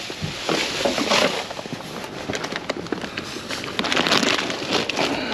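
Rustling and clattering of boxes and packaging being shoved and handled, with many small knocks and crackles, louder in patches about a second in and again near the end.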